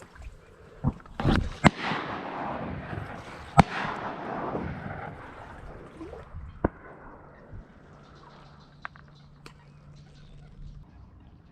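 Shotgun shots during a duck hunt: several sharp cracks, the loudest about a second and a half in and again near four seconds, with a hissing wash between them and a last, weaker crack near seven seconds.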